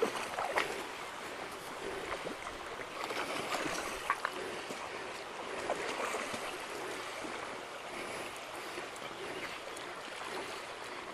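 Fast-flowing river water rushing steadily, with small splashes and clicks.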